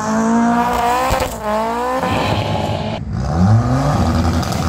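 Race-prepared hatchback engines revving hard under acceleration. One climbs in pitch for over a second and then drops away; after a cut about three seconds in, another engine revs up again.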